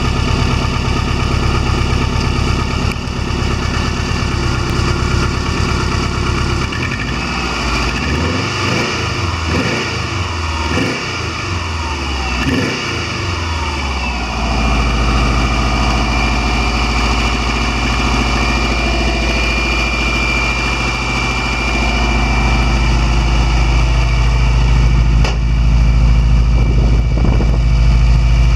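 Subaru 2.5-litre flat-four engine in a VW Vanagon running steadily, then revved up and back down several times about a third of the way in, before settling into a steady run again that grows slightly louder toward the end.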